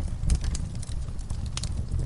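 Wood fire burning in an outdoor fireplace: a steady low rumble with irregular sharp crackles and pops, several clustered near the start and again in the second half.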